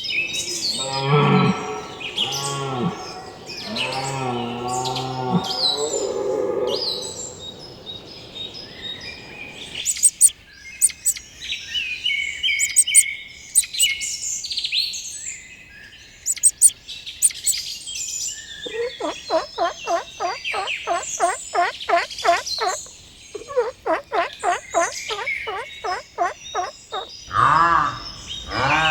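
A string of animal calls. Low drawn-out calls come in the first few seconds and high bird chirps run through most of it. In the second half a fast run of repeated pitched calls comes at about three a second.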